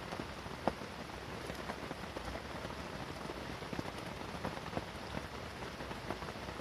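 Steady rain falling, with individual drops ticking sharply now and then over the even hiss.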